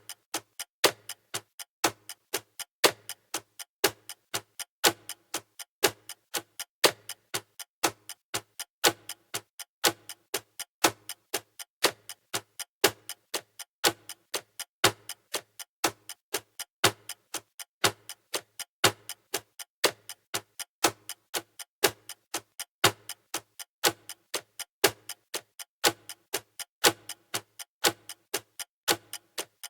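Countdown timer's clock-like ticking sound effect: a steady, evenly paced run of sharp ticks, several a second, with louder ticks recurring at a regular beat.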